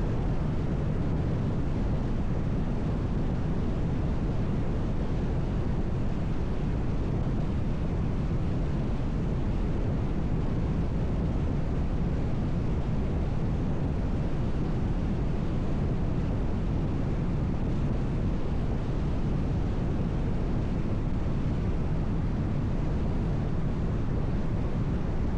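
Steady road noise of a car cruising on a highway: a low, even rumble of tyres and wind with no changes.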